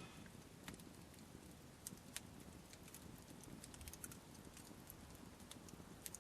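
Wood campfire crackling faintly: irregular sharp pops and snaps, several a second at times, over a soft low hiss.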